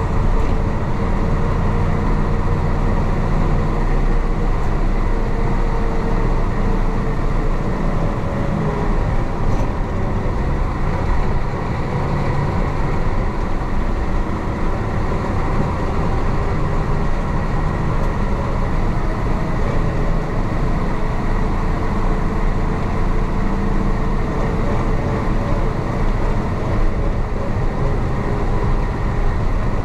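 Diesel engine of a 1966 Isuzu BXD30 bonnet bus, a DA640 six-cylinder, running steadily as the bus drives, heard from inside the cabin.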